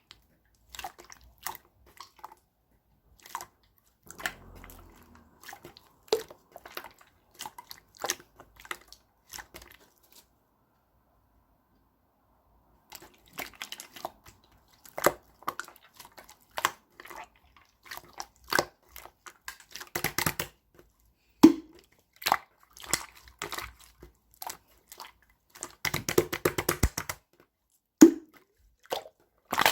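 Clear slime being pressed and poked by hand, making sticky, wet clicks and pops in irregular clusters. There is a pause of a few seconds near the middle, and the popping comes thicker after it.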